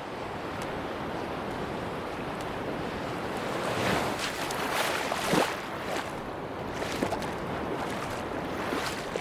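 Sea waves washing onto a beach, a steady wash with one wave building and breaking louder about four to five seconds in.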